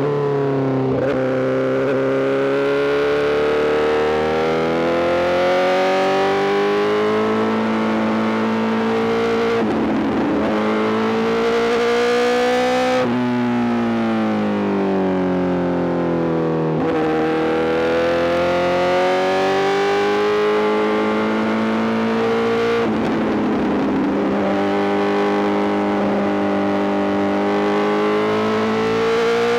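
Honda CBR1000RR-R SP inline-four engine breathing through an Arrow full GP exhaust under way. The engine note climbs slowly and drops suddenly at gear changes, several times.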